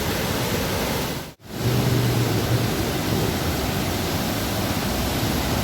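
Steady rush of water pouring down the Dubai Water Canal waterfall, cutting out for an instant about a second and a half in and then resuming.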